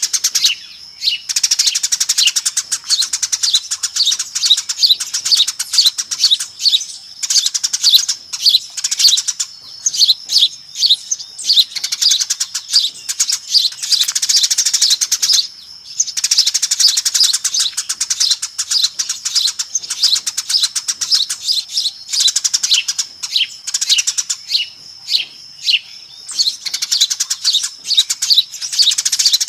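Many Eurasian tree sparrows chirping rapidly and without let-up, a busy flock chatter used as a lure call to attract sparrows, with a brief lull about halfway through.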